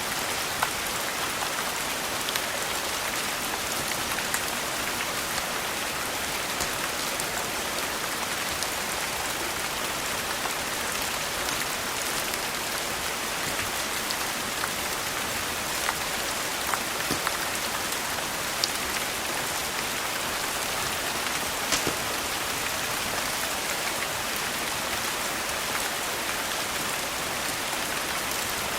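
Steady rain falling, a constant hiss with scattered sharp ticks and clicks throughout.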